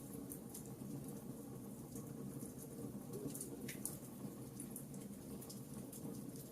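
Campfire crackling: irregular sharp snaps and pops, several a second, over a low steady rush of burning wood.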